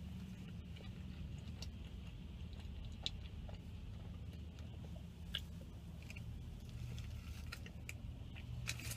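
Faint chewing of a soft-bread sandwich, with a few soft clicks scattered through, over a steady low hum inside a car.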